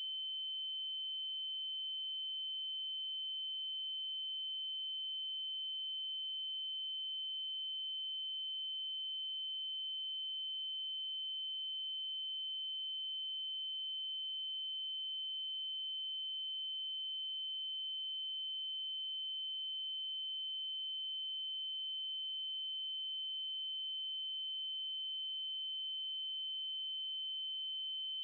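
Synthesized 3072 Hz triangle-wave tone, a steady, unchanging high-pitched note with faint overtones above it. A faint tick recurs about every five seconds.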